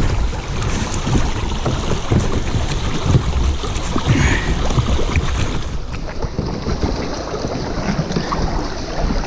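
Kayak hull knocking and scraping over river rocks in shallow moving water, with irregular thumps, while the boat is stuck front and back on the rocks.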